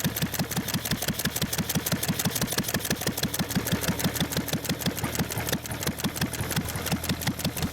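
1923 McCormick Deering (International Harvester) model M 1.5 hp single-cylinder engine running steadily at its governed speed, firing with an even, regular beat. It is throttle-governed, so it fires on every cycle rather than hitting and missing.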